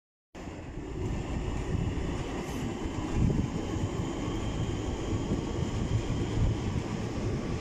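Southeastern electric multiple-unit train running along a platform road, a steady low rumble with a faint high whine above it.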